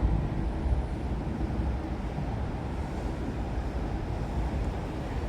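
Steady low vehicle rumble with no distinct event, the hum of a waiting electric train and passing traffic blended together, at a moderate level.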